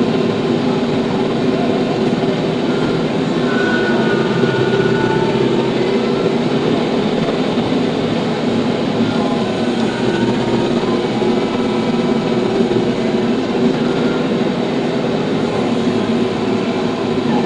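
TYM T574 tractor's engine running steadily at constant speed.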